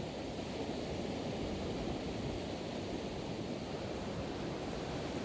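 Steady wash of Pacific Ocean surf, a constant rushing noise without distinct breaks.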